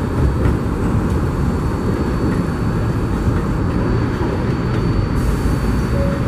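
Flushing-bound 7 subway train running at the station, a steady loud rumble with a thin high whine over it.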